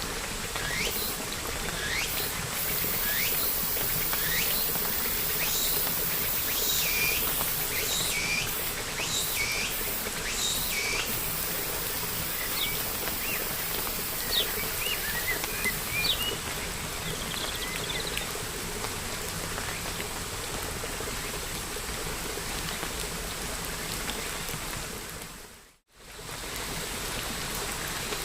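Steady rain hiss with birds chirping over it: a run of short rising calls, about one a second, then faster twittering that dies away a little past the middle. Near the end the sound fades out to silence for a moment and comes straight back as rain alone.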